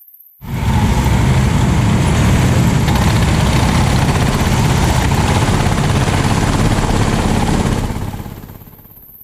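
A 390cc kart engine running at speed, heard loud and rough, as though on board. It cuts in suddenly about half a second in, holds steady, then fades away near the end.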